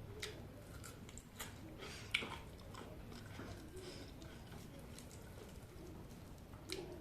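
A person chewing and biting chicken close to the microphone, with a few sharp crunching clicks, the loudest about two seconds in.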